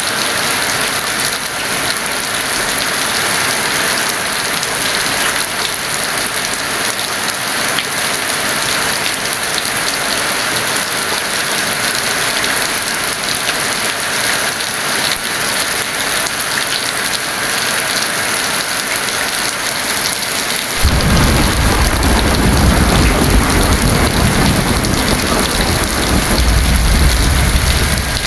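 Heavy rain falling steadily as an even hiss. About three quarters of the way through, a deep rumble of thunder sets in suddenly and rolls on for several seconds, louder than the rain.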